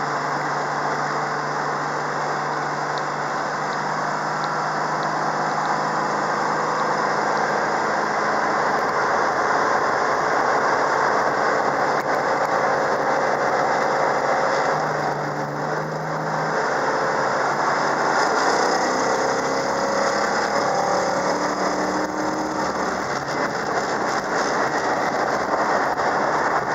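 A 1971 Dodge Charger R/T's 440 big-block V8 running steadily at low speed. Its level dips briefly about halfway through, and short rising and falling tones come and go in the second half.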